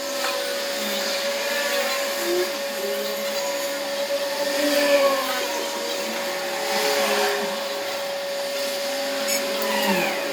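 Small electric motor running with a steady whine.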